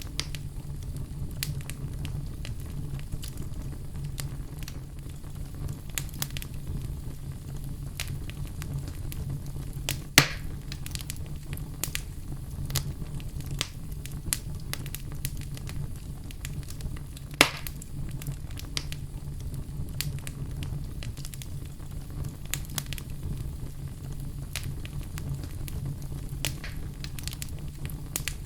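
Wood fire crackling steadily over a low rumble, with scattered sharp pops and two louder snaps about ten and seventeen seconds in.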